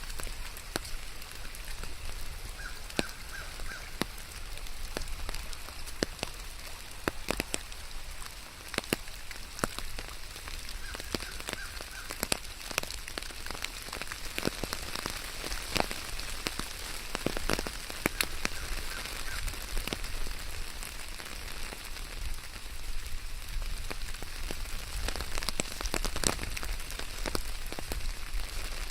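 Steady rainfall, an even hiss dotted with many sharp, irregular drop hits. A faint short chirping comes through three times.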